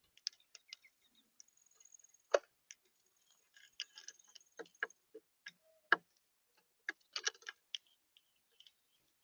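Irregular sharp taps and clicks of birds pecking at seed and shuffling on a feeder, picked up close by the feeder camera's microphone; two louder knocks stand out, one about two seconds in and one near the middle, and a quick flurry of taps follows.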